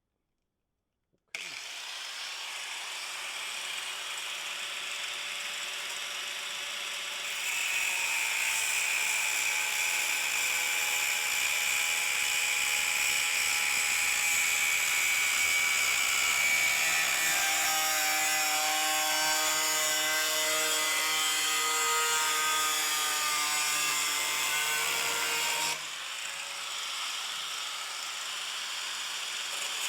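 Power tool working the steel body panel, starting abruptly about a second in and running continuously, its pitch shifting and sagging as it loads; it eases off briefly near the end, then picks up again.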